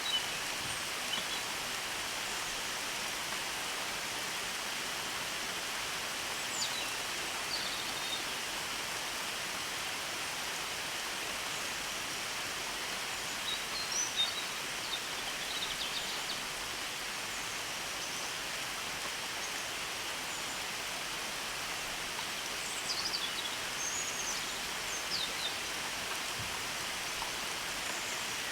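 Steady rain falling, with a few brief high bird chirps breaking through now and then.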